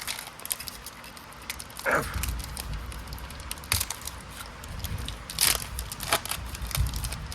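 Foil booster-pack wrapper being torn open and crinkled by hand, a run of sharp crackles. A short falling tone about two seconds in, and a low rumble underneath from then on.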